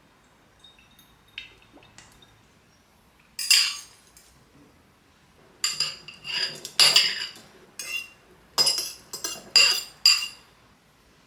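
Metal cutlery clinking and scraping against dishes: a single clink, then a quick run of about eight ringing clinks and scrapes.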